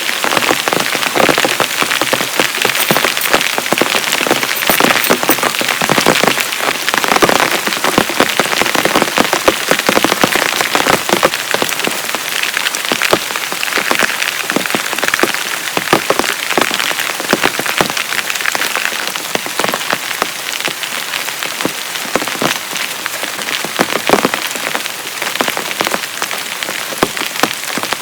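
Heavy rain falling steadily, with a dense stream of individual drops striking a surface close by.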